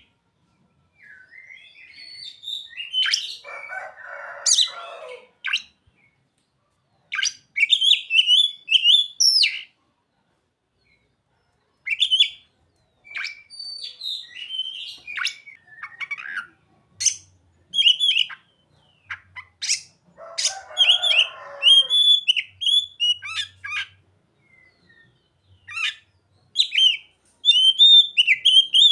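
Oriental magpie-robin (kacer) singing a varied song of short, high, chirping and whistled phrases broken by brief pauses, with mimicked calls of the bar-winged prinia (ciblek) and sogon worked in. A harsh, raspy stretch cuts in twice.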